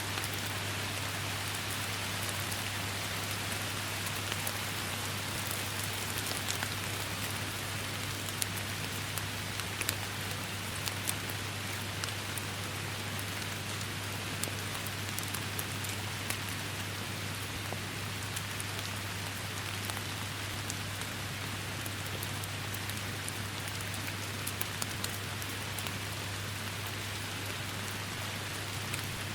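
Steady rain: an even hiss packed with sharp individual drop taps, over a low steady hum.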